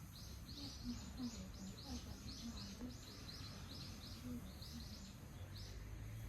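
A bird calling in a fast series of short, high chirps, about three to four a second, that stop shortly before the end.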